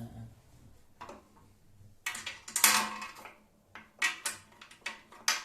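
Small metal hardware and tools clinking and rattling in irregular bursts while a bolt and nut are fitted during assembly, with the busiest clatter about two seconds in and another run near the end.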